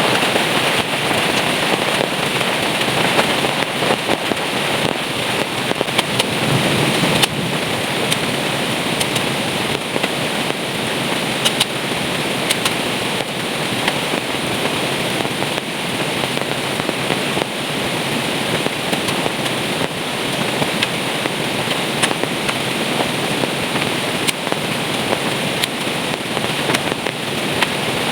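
Heavy rain pouring steadily, a dense crackling patter of drops striking close by with a few sharper taps.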